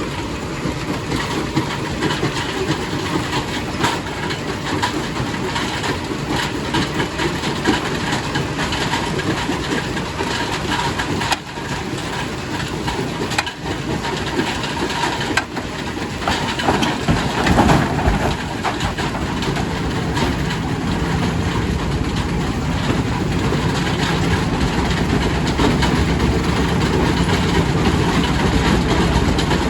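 Quarry primary rock crusher working: stone clattering and cracking over a continuous heavy mechanical rumble, with the densest clatter about 17 to 18 seconds in. A steady engine hum settles in under it over the second half.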